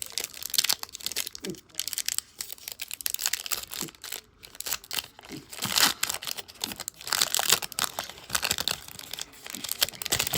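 Crinkly plastic wrapping of a trading-card pack being torn open and crumpled in the hands. It comes as a run of irregular crackles and rips.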